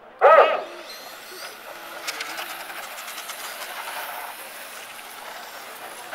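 A brief loud start call or horn blast just after the countdown, then a steady hiss of the RC superbikes pulling away and running.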